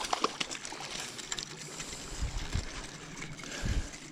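River water running, with scattered splashes, clicks and a few low knocks while a hooked trout is fought and brought in.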